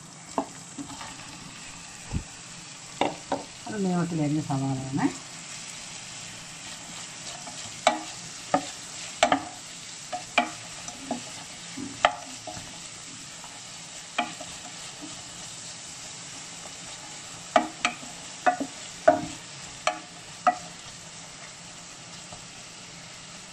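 Sliced onions frying in hot oil with green chillies: a steady sizzle, with a spatula knocking sharply against the pan again and again as they are stirred, the knocks coming mostly in the second half.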